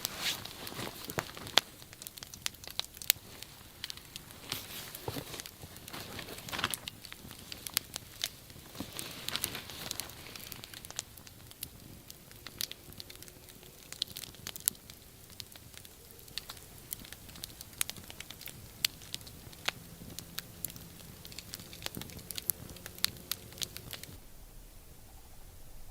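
Wood campfire crackling, with irregular sharp pops and snaps. The sound stops suddenly near the end.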